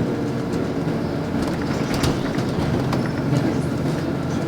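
Inside a LiAZ 5292.65 low-floor city bus under way: steady diesel engine and road noise, with a few loose clicks and rattles from the body.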